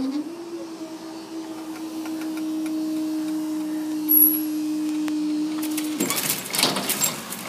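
Level crossing barrier mechanism: a steady motor hum holds for about six seconds and cuts off abruptly. A run of irregular rattling clicks follows.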